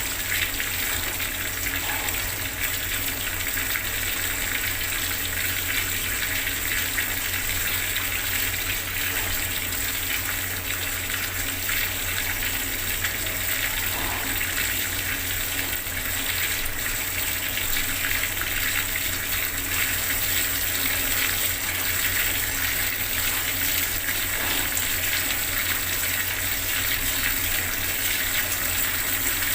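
Water running steadily from a bathroom tap, a constant hiss and splash of flowing water.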